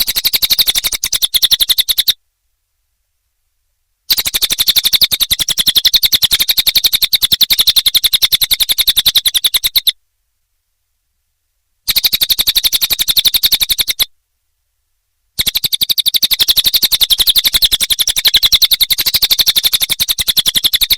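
Cililin songbird singing long, very fast trills of sharp repeated notes, in four runs: about two seconds, six seconds, two seconds and five seconds, with short silences between them.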